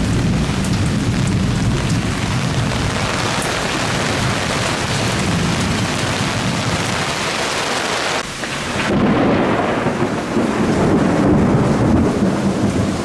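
Heavy downpour of rain pouring down steadily. About eight seconds in the sound dips briefly, then comes back louder and deeper.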